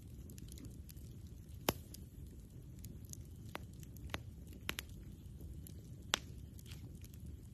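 Campfire burning with sparse sharp crackles and pops of wood, two of them louder than the rest, over a low steady rumble.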